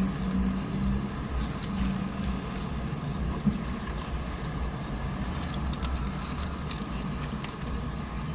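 Vehicle engine idling, a steady low rumble and hum, with a few faint ticks.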